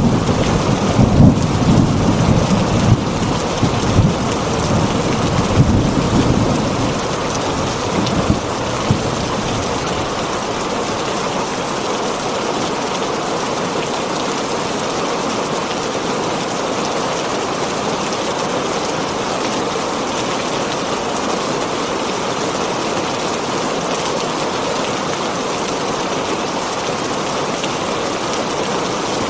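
Heavy rain falling steadily on a tin roof, with thunder rumbling through the first several seconds before it dies away and leaves only the even rain.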